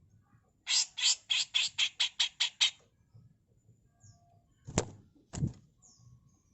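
Grey-cheeked bulbul (cucak jenggot) giving a fast, harsh run of about nine rasping notes, roughly four a second, then two sharp click-like notes a few seconds later.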